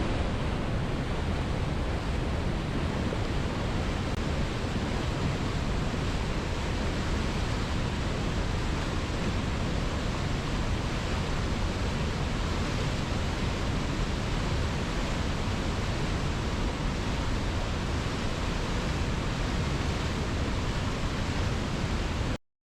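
Steady, even rushing noise with no rise and fall or rhythm, cutting off abruptly near the end.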